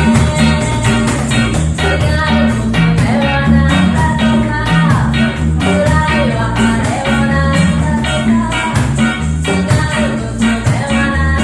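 A reggae band playing a cover song live, with a steady bass line, guitar and a singing voice.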